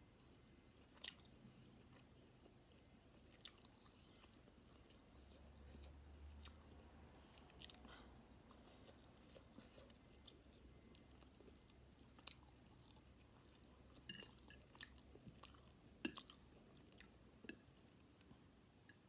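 Faint, close-miked chewing of chicken chow mein noodles, with scattered sharp clicks, more of them in the last third.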